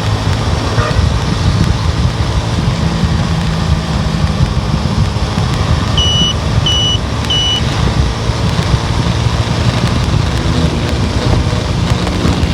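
A car on the move: steady engine and road noise throughout. About six seconds in come three short high-pitched beeps, spaced a little over half a second apart.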